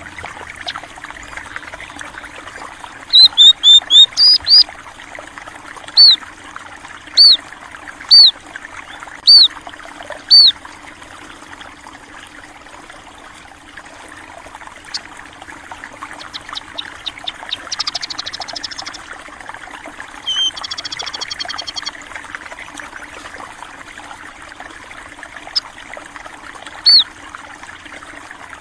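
Water trickling and flowing steadily, with sparrows chirping over it. There is a quick run of chirps a few seconds in, then single loud chirps about once a second. Later come two short buzzy trills and one more chirp near the end.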